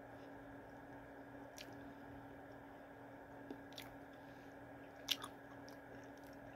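A person chewing a microwaved breaded potato tot with the mouth close to the microphone, faintly, with a few short mouth clicks, the loudest about five seconds in. A low steady hum runs underneath.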